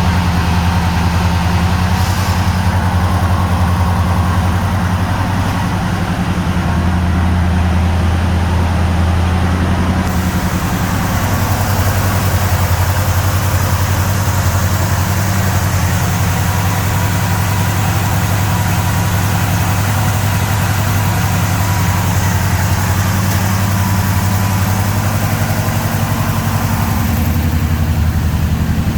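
A 350 small-block Chevrolet V8 idling steadily, with no revving. The owner says the engine runs great.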